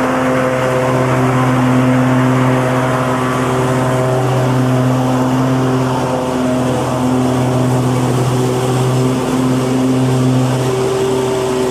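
Petrol lawn mower engine running steadily at a constant speed, its pitch wavering only slightly.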